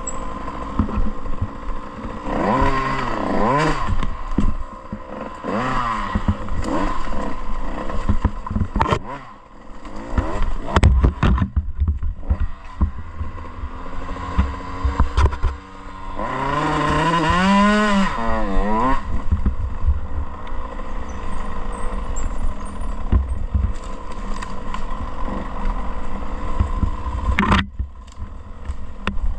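Off-road motorcycle engine revving up and down in repeated surges, its pitch climbing and dropping, under a steady low rumble of wind on the microphone. Sharp knocks sound a few times, most in the middle and once near the end.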